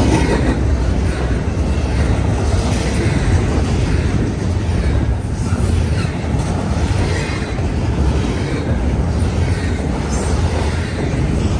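Double-stack intermodal freight train's well cars rolling past, a steady rumble of wheels on rail, with strong wind buffeting the microphone.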